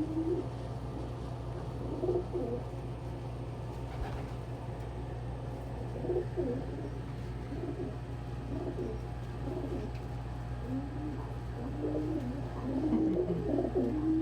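Domestic pigeons cooing: short, low, warbling coos scattered throughout, coming thicker near the end, over a steady low hum.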